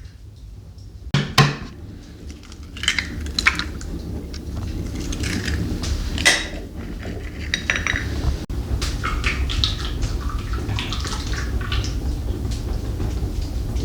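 Kitchenware clattering: a run of irregular clinks and knocks of pots, dishes and utensils being handled, over a steady low rumble.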